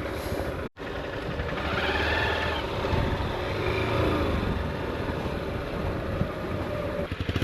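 Motorcycle engine running steadily on a rough mountain trail; the sound cuts out completely for a split second just under a second in.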